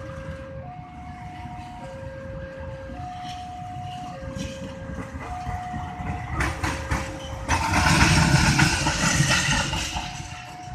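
Railway level-crossing warning alarm sounding two alternating tones, low then high, each held just over a second. About six seconds in, a loud clattering rush builds up, is loudest around eight seconds and then fades: a train running through the crossing.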